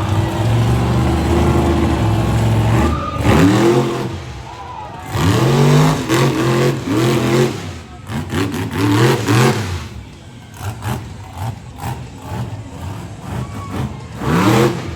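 Monster truck engine running steadily, then revved in a series of quick rising-and-falling blips from about three seconds in. It drops to a lower level later, with scattered sharp knocks near the end.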